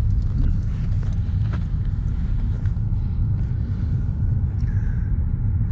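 Steady low rumble inside a car with the windows down.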